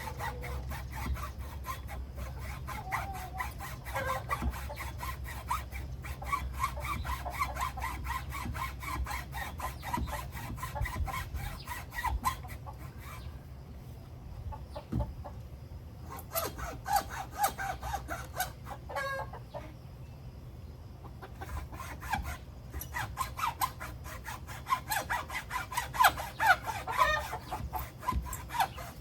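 Chickens clucking and calling over the repeated strokes of a saw cutting through a wooden board. The sawing stops for a few seconds midway and then resumes, and the clucking is loudest near the end.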